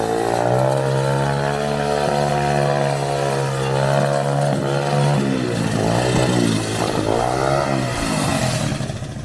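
Dirt-bike engine of a drift trike running at a steady high speed, then revving up and down several times and dropping off near the end.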